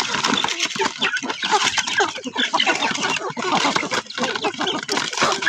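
Poultry clucking, many birds calling at once in a dense, continuous chatter.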